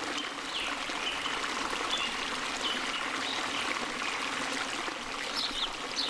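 Steady rush of flowing stream water, with short high chirps scattered over it that come more often near the end.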